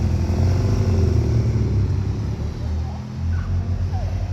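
A motor vehicle's engine runs close by with a steady low rumble. Its pitch rises a little about a second in, then it eases off after about three seconds.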